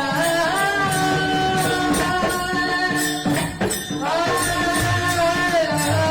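A male devotional singer sings long, gliding held notes over a steady jingling percussion beat. The voice breaks off briefly about three and a half seconds in, then comes back in.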